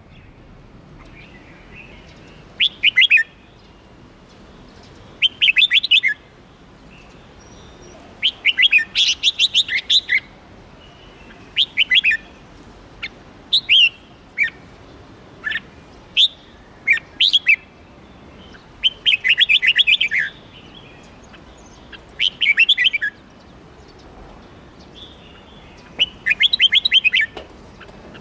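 Red-whiskered bulbul singing: short bursts of quick, bright notes repeated every two or three seconds, with a few single chirps in between over a faint steady hiss.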